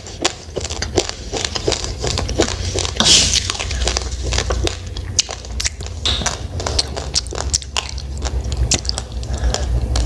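A person chewing a mouthful of raw, uncooked rice close to the microphone: dry grains cracking between the teeth in rapid, irregular crunching clicks, over a low rumble.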